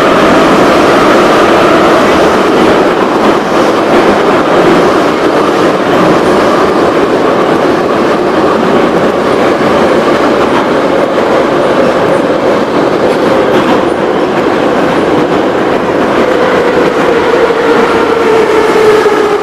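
81-717/714 'Nomernoy' metro train running between stations: a loud, steady rumble of wheels on rail with a droning whine from the traction drive. The whine slowly falls in pitch near the end as the train slows.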